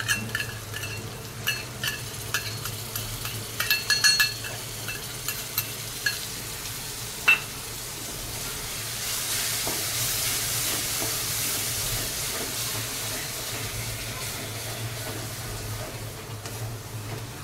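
A spoon clinks against a steel cup and a wooden spatula taps and scrapes in a metal kadai as plain yogurt is added to the masala. From about nine seconds in, the masala sizzles steadily in hot oil as the yogurt is stirred through it.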